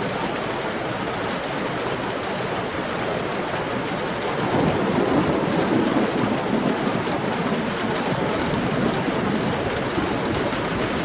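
Heavy rain falling steadily, with a low rumble of thunder swelling about four seconds in and then easing.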